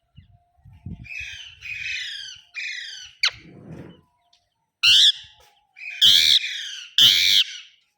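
Parrot calling loudly: a quick run of chattering calls, then three harsh screeches about a second apart near the end.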